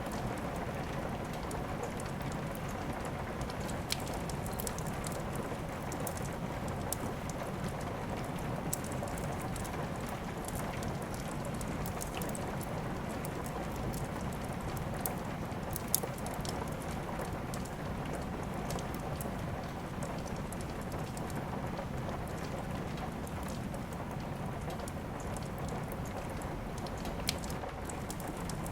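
Steady rain with a wood fire in a fireplace: an even hiss of rainfall, broken by scattered sharp crackles and pops from the burning wood, a few standing out clearly.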